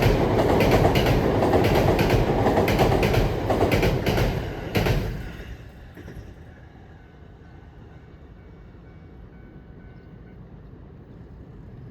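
A 70-000 series electric commuter train passing close by, its wheels clicking rhythmically over the rail joints. The noise cuts off about five seconds in as the last car goes by, leaving a quiet, steady background.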